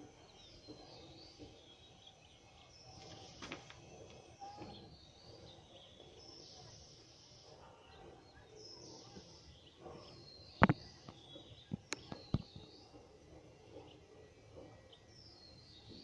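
Birds chirping over faint outdoor background noise, with three sharp clicks about two-thirds of the way through, the first the loudest.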